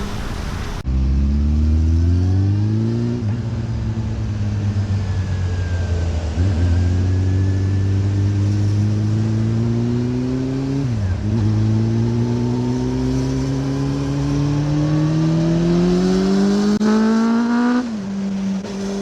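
Honda CB400 Revo's inline-four engine through a Moriwaki exhaust, pulling hard up through the gears. The note climbs steadily in each gear, drops sharply at the shifts about three, six and eleven seconds in, then climbs to a high pitch and falls back to a steady lower note near the end.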